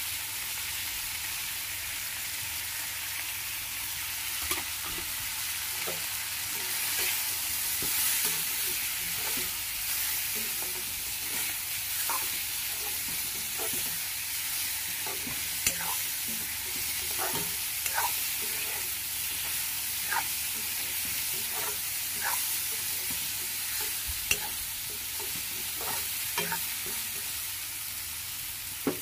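Goat meat and onions frying in hot oil in a metal karahi, a steady sizzle as ground spices are stirred in. A stirring utensil scrapes and knocks against the pan now and then.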